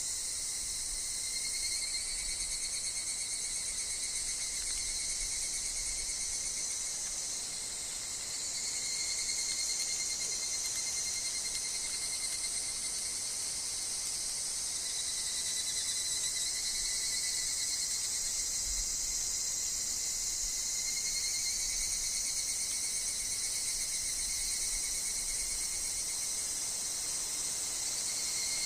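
Steady chorus of calling insects, with higurashi (evening cicadas) among them: a dense high-pitched ringing with pulsing tones beneath it. The chorus dips briefly about eight seconds in.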